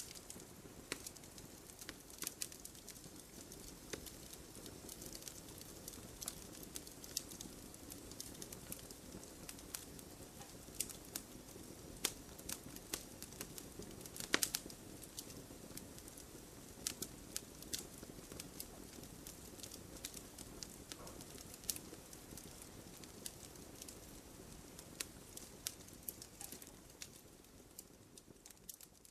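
Wood fire in a fireplace crackling: irregular sharp pops and snaps, several a second, over a soft steady rush of flame.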